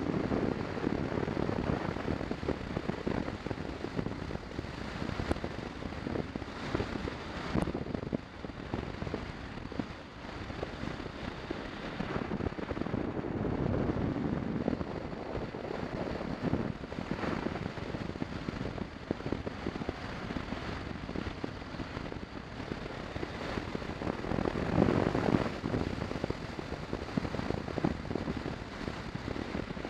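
Wind rushing and buffeting over the camera microphone of a moving motorcycle, a rough crackling roar that swells and eases.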